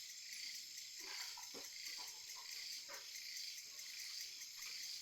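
Steady, faint chorus of insects chirping, high-pitched and pulsing, with a few soft knocks about a second or two in.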